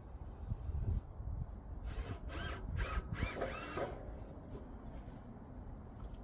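Power drill running in several short bursts, its motor whine rising and falling with each squeeze of the trigger.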